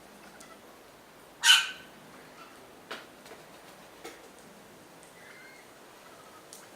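A bird gives one short, harsh call about a second and a half in, followed by a few faint ticks.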